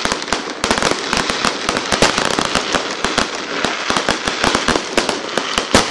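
Aerial fireworks going off in quick succession: a dense string of bangs and crackles, with an especially heavy bang near the end.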